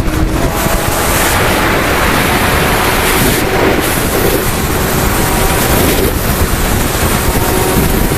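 Heavy wind rush on the microphone of a Kawasaki Ninja sport bike riding at speed, with the engine's note faint beneath it and a little clearer near the end.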